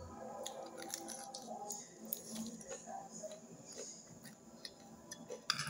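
A person eating roast chicken by hand, chewing and gnawing the meat off the bone with wet mouth sounds and small clicks, and a sharper click shortly before the end.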